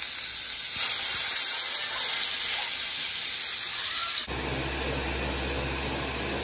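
Pork chops sizzling in hot oil in a skillet, getting louder about a second in as a second chop goes into the pan. About four seconds in, the sound changes abruptly to the steady low hum of a Ninja blender's motor running.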